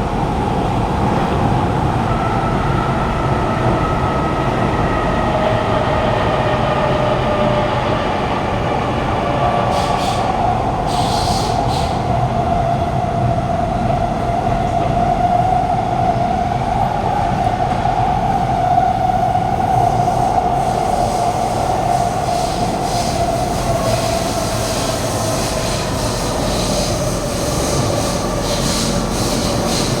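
Kawasaki Heavy Industries C151 metro train heard from inside the carriage while running through a tunnel: a steady loud rumble with drawn-out whining tones that slowly rise and fall in pitch.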